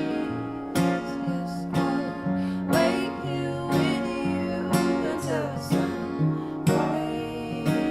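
Acoustic guitar strumming steady chords, about two strums a second, in an instrumental break of a soft pop song.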